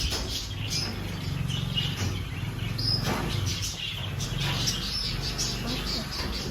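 A caged flock of budgerigars and cockatiels chirping, with many short, high calls overlapping throughout. A low steady hum runs underneath.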